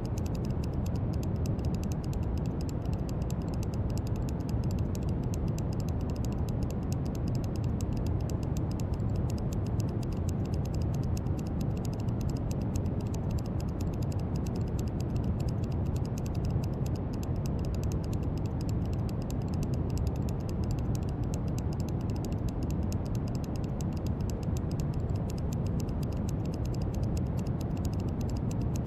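Brown noise: a steady, deep hiss, heaviest in the bass and dull in the treble, with a fine fast crackle on top.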